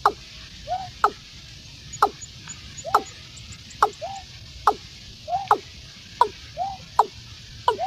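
Watercock calling over and over in a steady rhythm: a short, sharp note sweeping downward, then a softer curved note lower down, about one pair a second, over a steady hiss.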